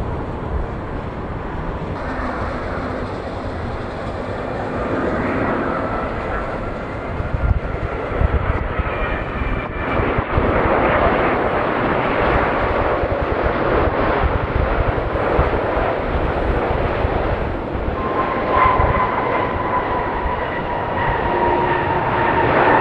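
Jet airliner's engines at takeoff thrust: a loud, steady rushing noise with a thin whine whose pitch drifts slowly down, strongest in the second half.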